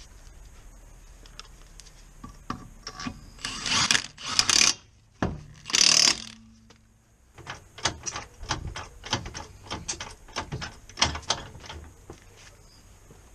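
Ratchet wrench clicking as a fastener is turned, in uneven runs of sharp clicks. There are a few short louder rasps about four and six seconds in.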